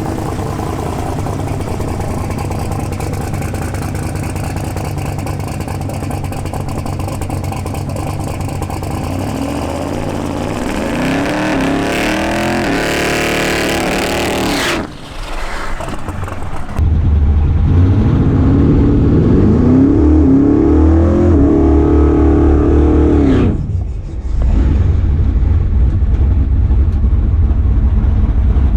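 Twin-turbo big-block Chevy V8 in a 1956 Chevy drag car: a steady engine note at first, then revving up twice, each rise in pitch cutting off sharply, with a loud low drone in between and after.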